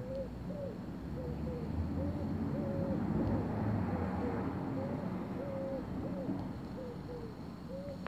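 A bird calling in the background: a run of short, low, hooting notes, about two a second, over a low rumble that swells in the middle.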